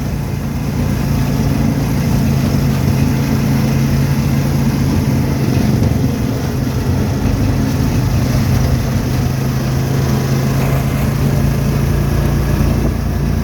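A motor vehicle's engine running steadily, a constant low hum with no change in pitch.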